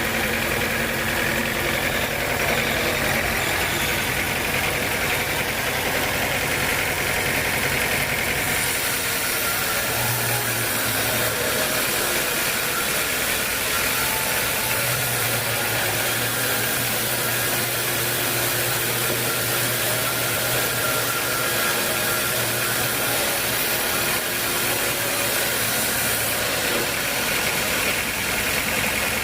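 Sawmill machinery running steadily with a continuous engine-like drone. About ten seconds in, the low hum changes pitch and then holds steady.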